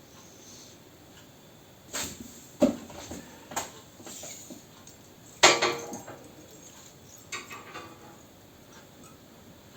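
Scattered metal knocks and clinks, about five over several seconds with the loudest near the middle, as a cleaning rod and brush work against the steel of a pellet stove's heat exchanger tubes.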